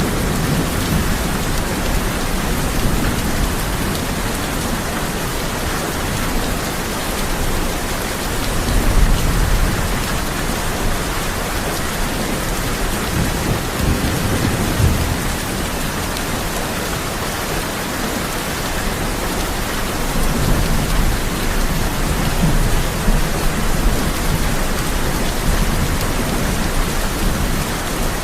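Heavy rain on a tin roof, a dense steady hiss, with low rolls of thunder swelling and fading several times: once about a third of the way in, again around the middle, and through the last third.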